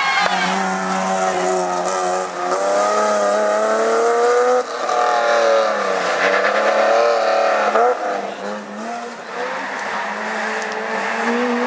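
Rally car engine revving hard at full throttle. The pitch climbs for several seconds, cuts sharply about four and a half seconds in and again near eight seconds as the driver shifts or lifts, then climbs again near the end.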